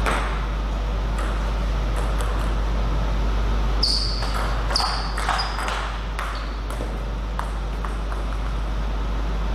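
Table tennis rally: the celluloid ball clicks sharply off bats and table in quick, irregular succession, a few hits ringing high. A steady low hum runs underneath.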